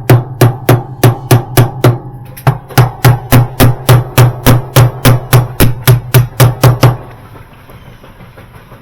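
Quick, even hammer taps, about three to four a second, driving the spin block down onto the spin tube of a Whirlpool direct-drive washer. The tapping pauses briefly about two seconds in and stops about seven seconds in.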